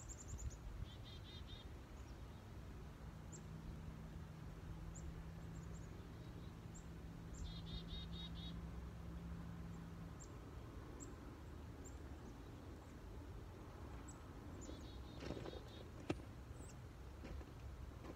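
Songbirds singing outdoors: a short trilled phrase repeats three times, several seconds apart, with thin high chirps in between. Under them is a low outdoor rumble, with a steady low hum for the first ten seconds or so and one sharp click near the end.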